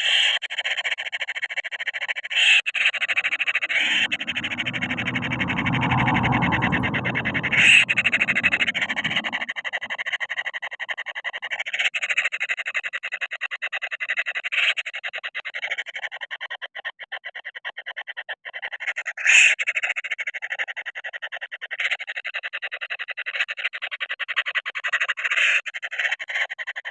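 Hungry kingfisher nestlings begging in a continuous, rapid buzzing rattle, with a few louder sharp calls. A low rumble joins from about four to nine seconds in.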